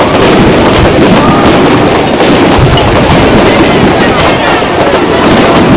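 Fireworks going off at close range: a loud, dense, continuous crackle of rapid bangs.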